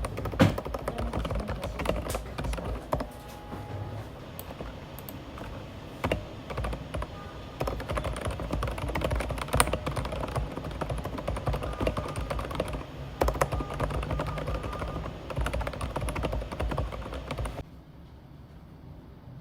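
Typing on a computer keyboard: rapid, irregular key clicks over steady background noise. About two seconds before the end the sound cuts to a quieter scene.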